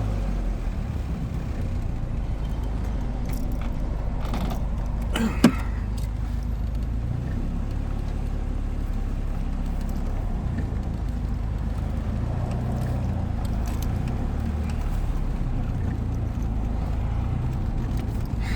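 Steady low engine and road rumble heard from inside a 1952 car while it is driven, with one short sharp knock about five seconds in.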